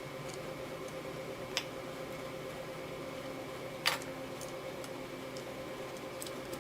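A steady mechanical hum with two sharp clicks, the louder one about four seconds in.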